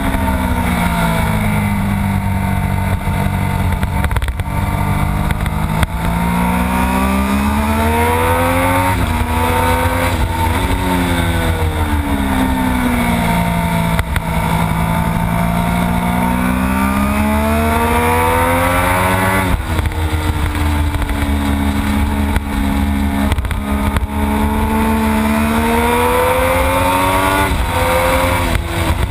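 Triumph Daytona 675's three-cylinder engine at racing speed, heard from onboard: the pitch climbs under hard acceleration and drops suddenly at each upshift, then falls away as the bike slows for corners. Wind rushes steadily over the camera throughout.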